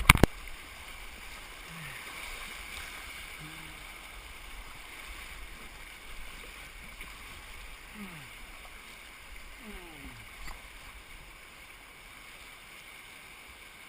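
Steady rush of creek water running over rocks around a paddled boat, with one sharp knock right at the start.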